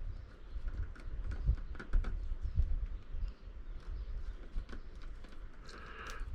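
Irregular small clicks and rustles of a plastic wire nut being twisted onto a pair of black wires, over a steady low rumble.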